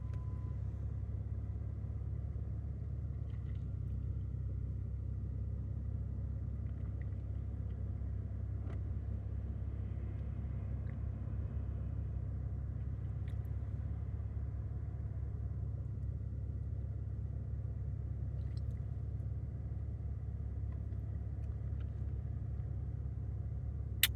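Steady low rumble of a vehicle engine idling, with no change in pitch or level.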